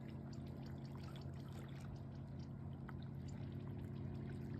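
Water lapping and trickling with small scattered drips and splashes, over a steady low hum.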